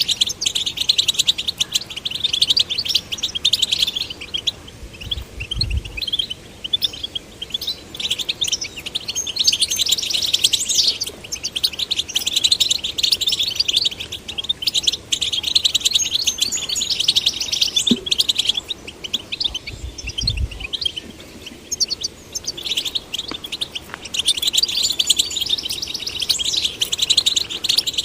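European goldfinch singing: phrases of rapid, high twittering broken by short pauses. Two brief low thuds come about 5 s and 20 s in.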